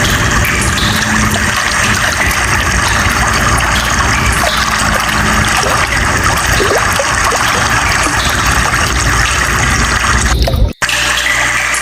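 Water running steadily with a full, even rushing sound; it cuts out for an instant near the end and resumes.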